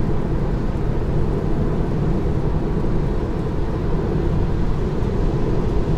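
Steady road and tyre noise of a Tesla Model 3 electric car driving on a wet road, heard from inside the cabin as an even low rumble with no engine note.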